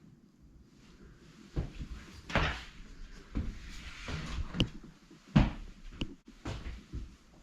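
A string of irregular knocks and clicks, like wooden doors or cabinets being handled, with the sharpest knock about five and a half seconds in.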